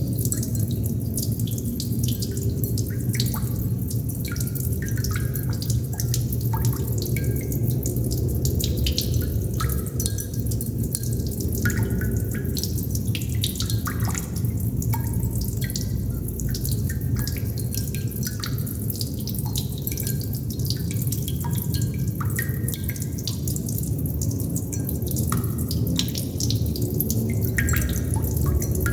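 Water droplets dripping irregularly, each landing as a short pitched plink, over a steady low rumble.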